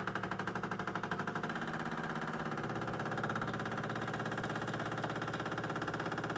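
Bosch Tassimo pod machine's pump running with a rapid, even pulsing as it forces hot water through the creamer disc.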